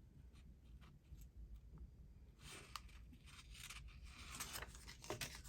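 Faint paper rustling with a few short scissor snips as a strip of paper is trimmed.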